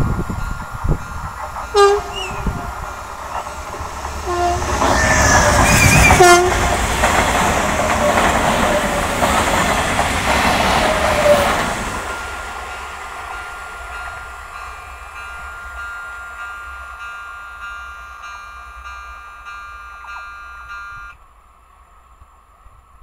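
A train passes over a pedestrian level crossing. It sounds its horn in three short blasts as its loud rush of wheels on rail builds to a peak about six seconds in, then fades. Under this, the crossing's warning signal sounds a steady electronic tone, which cuts off abruptly near the end as the crossing clears.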